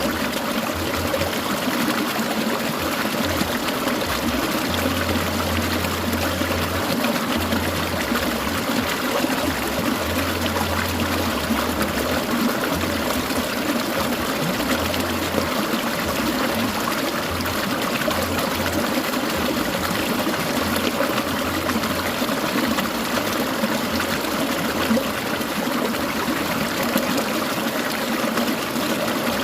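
Clear mountain stream trickling and babbling over rocks, a steady, even rush of water.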